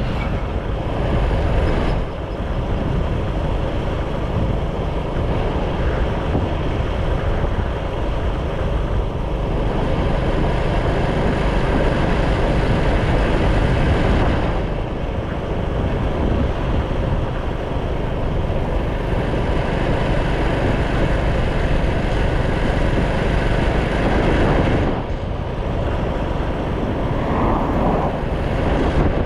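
Motorcycle riding: the engine running under a continuous rush of wind on the camera microphone, its level dipping slightly a few times.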